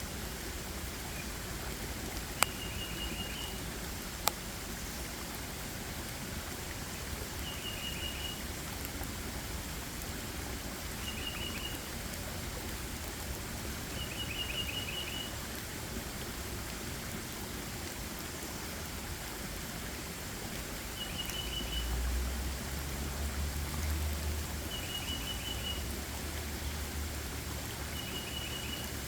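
Steady hiss of water, with a small bird repeating a short, high trilled call every few seconds, about seven times. Two sharp clicks come a few seconds in, and a low rumble rises for a few seconds after the middle.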